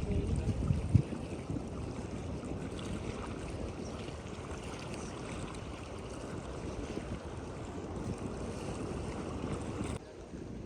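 Wind rumbling on the microphone over steady sea noise at the shore, gusting hardest in the first second and dropping off suddenly near the end.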